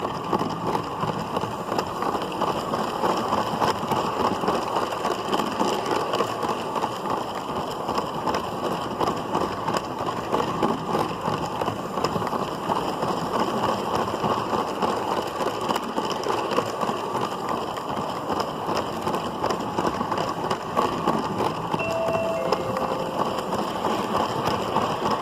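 LEGO City Passenger Train 60197 running along plastic track, heard from on board: a steady rattling whirr of its motor and plastic wheels rolling over the track.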